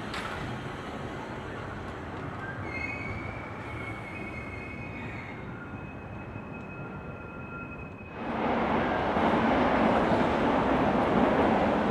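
Trains at a railway station: a steady rumble with thin, high-pitched squeals held for a few seconds, then, about eight seconds in, a sudden much louder rushing noise as a train runs close by.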